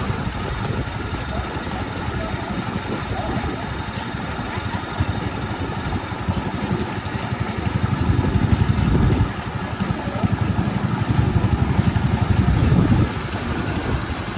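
Engine of farm machinery in a rice field running steadily. It gets louder for a second or two about two-thirds of the way through, then again for a couple of seconds near the end.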